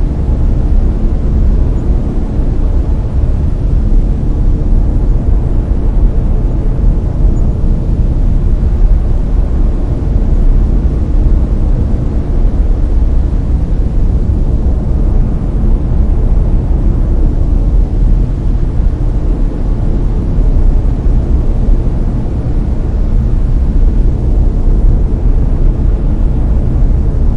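Layered brown noise: a loud, steady, deep rushing noise, strongest in the low end, that does not change.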